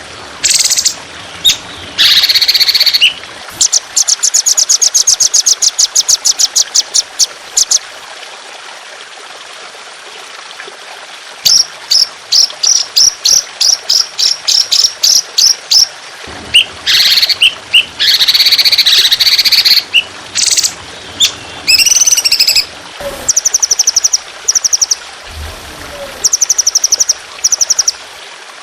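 A songbird singing in loud separate phrases, some of them long fast runs of repeated high notes and harsh rattling bursts, with short pauses between, over a steady trickle of running water.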